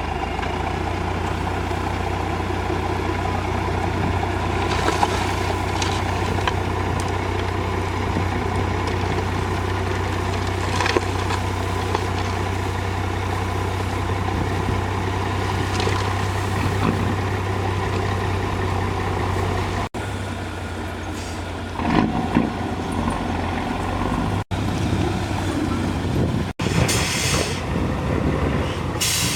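Heavy diesel engines of a backhoe loader and dump trucks running steadily at a work site, with short bursts of hiss near the end. The sound drops out briefly three times.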